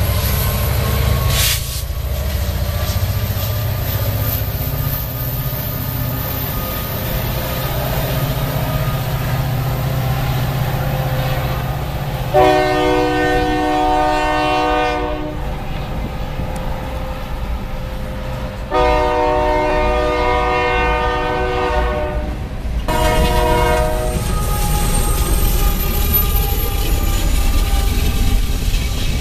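Diesel freight locomotive's air horn sounding two long chords and a short one, over the steady low rumble of the passing train and its wheels on the rails. Long, long, short is the start of the grade-crossing signal.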